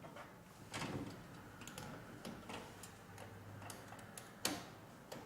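Scattered light clicks and knocks of hands handling the work table of a sublimation heat press, with the loudest taps about a second in and near the end.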